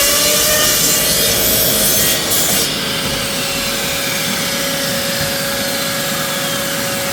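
Electric saw running and cutting plywood into small 45-degree triangles, a steady motor whine under the cutting noise. The harsher cutting sound eases about two and a half seconds in while the motor keeps running.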